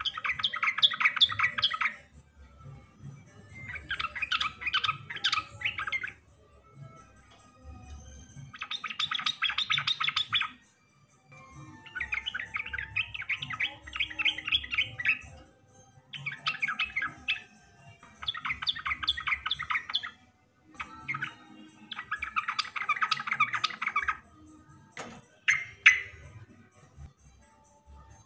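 Yellow-vented bulbul (trucukan) singing its bubbly, chattering song in repeated phrases of about two seconds, with short pauses between them. There is a single sharp click about three-quarters of the way through.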